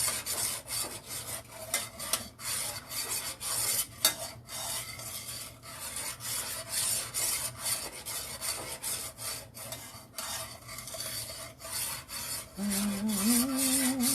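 A spoon scraping round the bottom of a pot as a thickening sauce is stirred, in repeated scraping strokes a few times a second.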